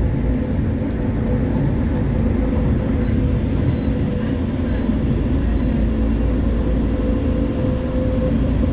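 West Midlands Metro CAF Urbos 3 tram running between stops, heard from inside the car: a steady rumble of wheels and running gear on the rails, with a whine held at one pitch.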